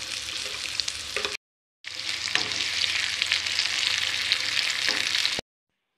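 Chopped shallots and garlic sizzling and crackling as they fry in hot oil in a pan. The sound cuts out abruptly for about half a second a little over a second in, then stops suddenly near the end.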